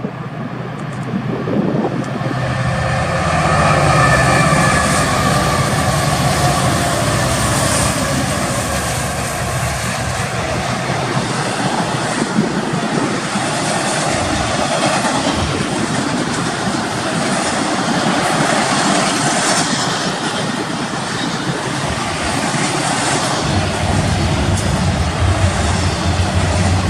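Union Pacific freight train passing at speed behind EMD SD70M and SD70ACe diesel locomotives, with their two-stroke EMD 710 engines running. The sound grows over the first few seconds as the locomotives come by, then settles into a steady rolling roar of the train's wheels and cars.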